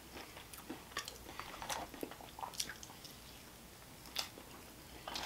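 Close-miked chewing and biting, soft wet mouth smacks and clicks as a person eats barbecue riblets, with a sharper click about four seconds in.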